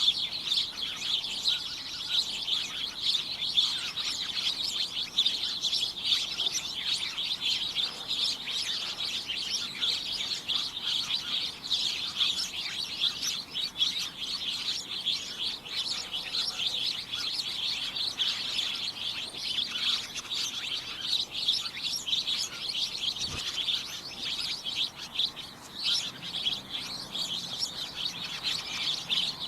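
A flock of small birds chirping and tweeting in a dense, unbroken chorus of short, high chirps that overlap constantly.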